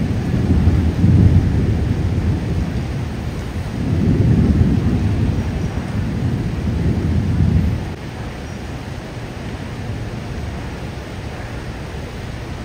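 Steady rain, with a low rumble that swells twice and dies down about eight seconds in.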